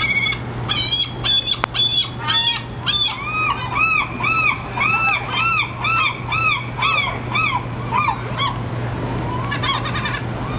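Gulls calling: a fast series of repeated arched, yelping calls, about two a second, with several birds overlapping at first and then one long run of calls that fades out about eight and a half seconds in.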